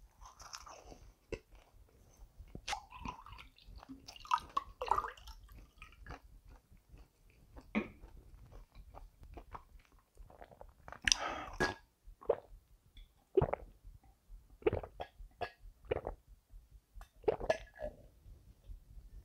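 Close-miked chewing and crunching of a crispy fried potato-coated cheese bite: irregular crunches, clicks and wet mouth sounds. Near the end, sips and swallows of juice from a glass.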